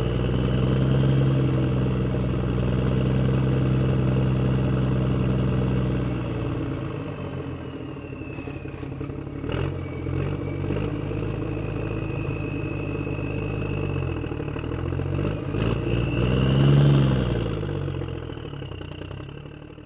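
RC off-road truck's engine running steadily, easing off about six seconds in, then revving up and back down near the end. A few sharp clicks come through the middle, and the sound fades out at the very end.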